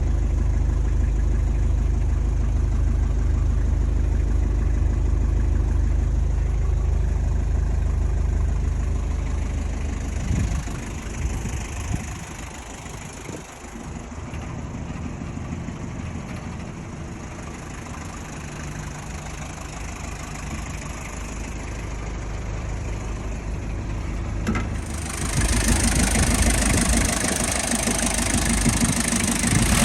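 Mazda Bongo Brawny's R2 four-cylinder diesel engine idling with a steady low hum. About ten seconds in it becomes quieter and less even. Near the end a louder, noisier sound joins it.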